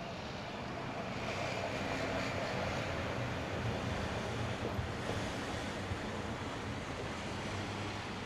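Steady wash of sea surf with the hum of a passing engine that swells from about a second in and fades toward the end.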